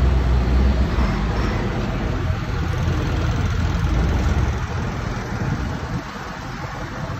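Old tractor engine running as it passes close by. Its low engine note fades after about four seconds as it moves away, leaving a weaker engine and road noise.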